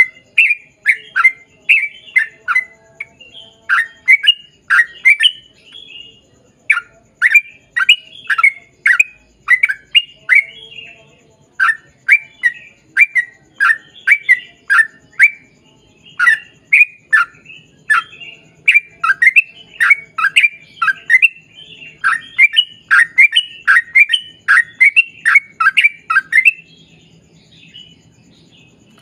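Yellow-vented bulbul (trucukan) singing a long, fast string of short downward-slurred notes, about three a second, in runs with brief pauses. The song stops near the end.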